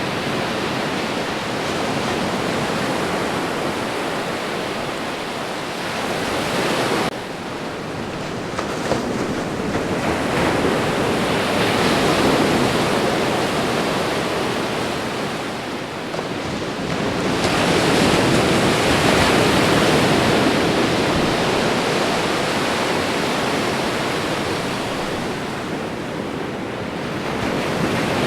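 Ocean waves breaking and washing on a shore, a steady rushing surf that swells into louder surges and ebbs away.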